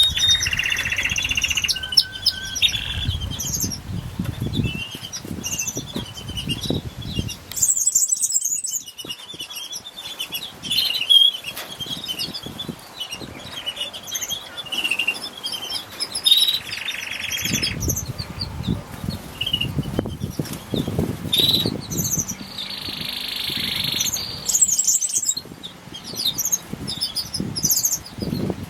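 Small birds chirping and trilling with many short high calls, with bursts of wing flapping in the first few seconds and again past the middle.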